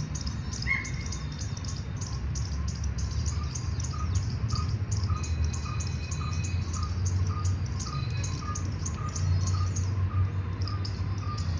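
Insects chirping in fast, continuous pulses, with a small short call repeating about twice a second from about three seconds in, over a steady low rumble.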